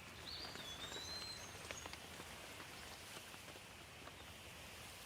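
Faint outdoor ambience: a soft even hiss with scattered light ticks like drops, and one short high-pitched bird call about a third of a second in.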